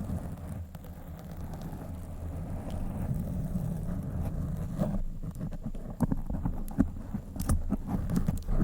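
Fingers scratching and rubbing directly on a microphone, a steady low rumbling scrape, with sharper scratchy clicks coming more often in the second half.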